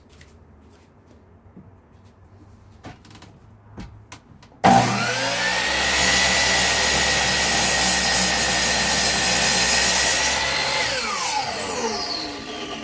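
A few light knocks, then an electric power tool's motor switched on: it spins up quickly, runs at a steady high speed for about six seconds, then is switched off and winds down with falling pitch.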